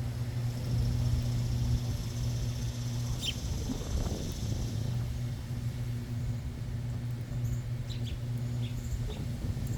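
Scattered short bird chirps, one about three seconds in and a quick few near the end, over a steady low hum.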